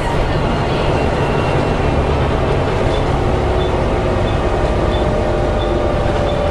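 Volvo B7TL double-decker bus heard from on board while under way: steady engine and road rumble with a thin howling whine that slowly rises in pitch over the second half.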